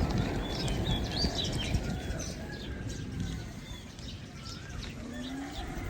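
Small birds chirping and twittering in quick, wavering calls, over a low rumbling noise that thins out in the middle.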